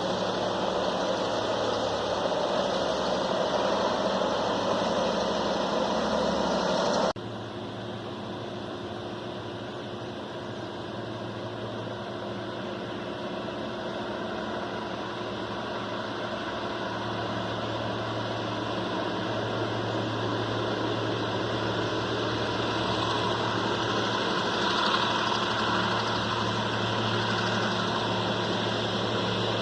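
EMD G22U diesel-electric locomotive engine running steadily with a low hum. About seven seconds in the sound cuts suddenly to a quieter engine that grows slowly louder.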